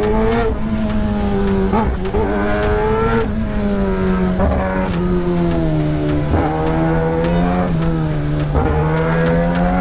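Kawasaki ZX-10R inline-four engine running under a rider, its pitch sliding and shifting several times as the throttle and gears change.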